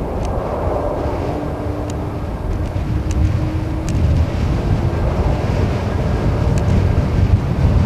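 Boeing 747-400D airliner's jet engines rumbling low and steady on its landing approach, growing slightly louder, with wind on the microphone.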